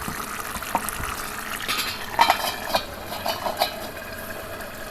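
Several light metallic clinks of cookware against a pot of simmering curry, over a steady hiss from the pot on the gas stove.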